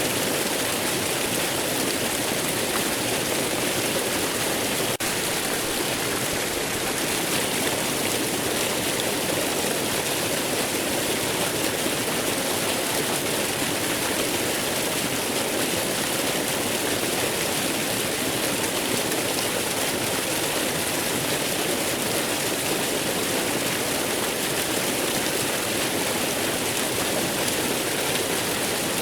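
Waterfall: water falling and rushing steadily, an even, unbroken wash of sound with no separate splashes or drips standing out.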